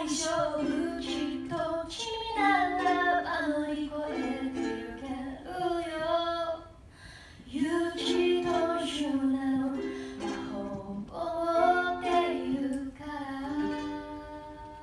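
A woman singing a song to her own ukulele accompaniment, the sung melody over plucked chords. The music dies away near the end.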